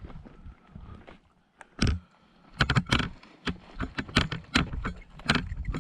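Footsteps of a person moving quickly over rough ground, with carried gear rattling: irregular knocks about two to three a second, starting about halfway through after a quieter stretch.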